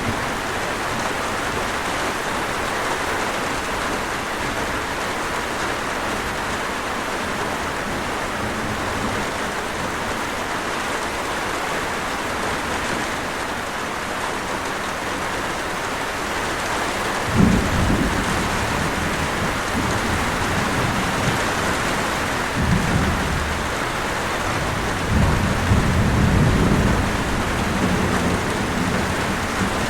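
Steady rain falling, with low rolls of thunder rumbling about two-thirds of the way through and again, longer, a few seconds later.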